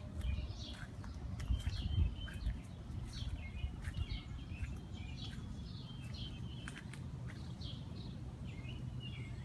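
Several birds chirping and calling in short, scattered notes over a low, steady rumble of outdoor background noise.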